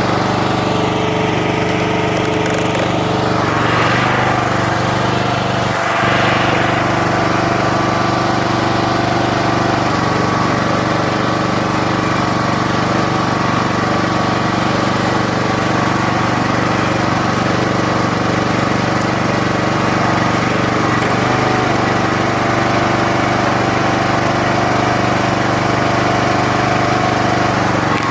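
Small engine powering a hydraulic log splitter, running steadily throughout, with two brief rising-and-falling sweeps a few seconds in.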